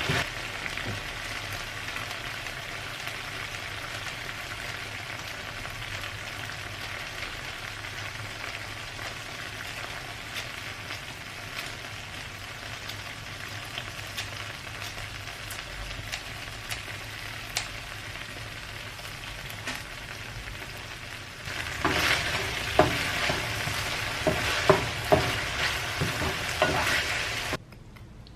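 Food sizzling in a frying pan, a steady hiss with scattered clicks of a utensil against the pan. A little past twenty seconds in, the sizzle grows louder and the stirring clicks come thicker, then it stops suddenly near the end.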